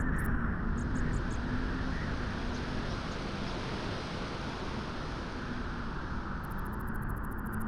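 Steady wind noise of a beach wind ambience, a continuous rush with a swell in the upper hiss through the middle.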